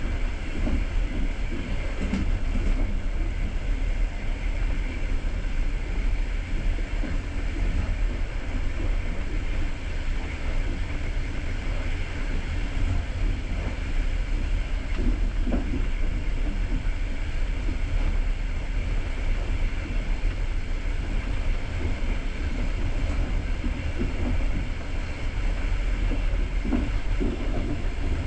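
Passenger train coach running along the line: a steady low rumble of wheels on rail, with a few faint knocks.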